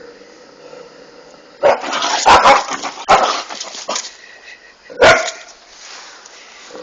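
Dog barking in a string of loud, sudden barks about two to four seconds in, with one more bark about five seconds in.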